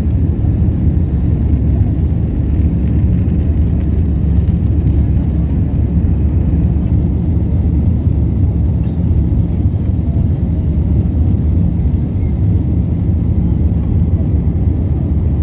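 Steady low drone of an aircraft's engines and airflow heard from inside the cockpit.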